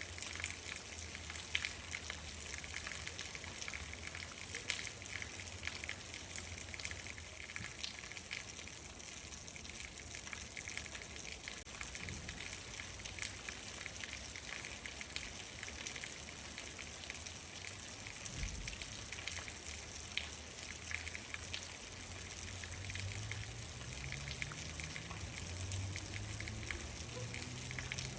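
Steady rain, a continuous hiss dense with the ticks of individual drops hitting a surface. A low rumble swells up near the end.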